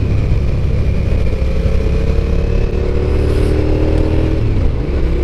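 Suzuki SV650S V-twin motorcycle engine under way, its note climbing slowly as it pulls, then dropping off briefly about four seconds in before picking up again, with heavy low rumble.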